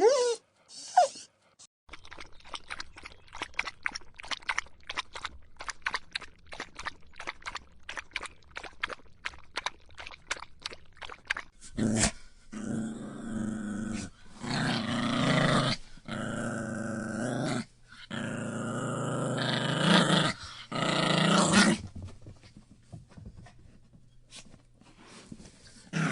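A dog growling in a run of rough growls of one to two seconds each through the middle of the stretch. Before them come two short calls at the very start and a long run of quick, faint clicks.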